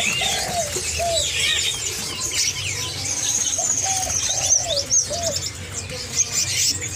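Many caged songbirds chirping and twittering at once, with a lower call repeating in short arched notes and a rapid high trill about halfway through.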